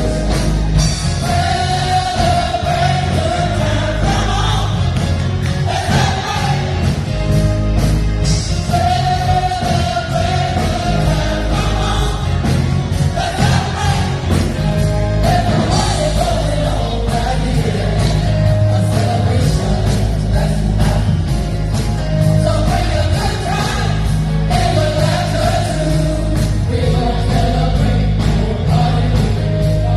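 A vocal group singing a gospel song with instrumental backing: voices hold long notes over a steady bass line and drums.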